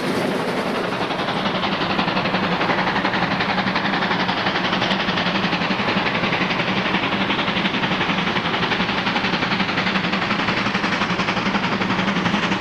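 Steam locomotive working up a steep grade, its exhaust beats coming fast and even over a steady low hum.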